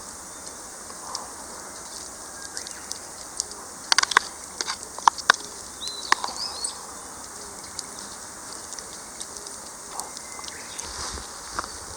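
Wood campfire crackling, with a cluster of sharp pops in the middle. Small birds chirp briefly over a steady insect hum.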